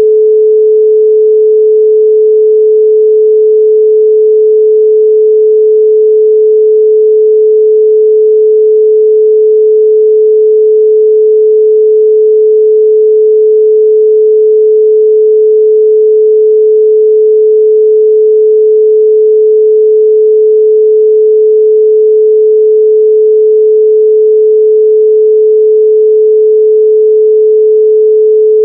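A 432 Hz pure sine tone, held steady and loud with no change in pitch or level.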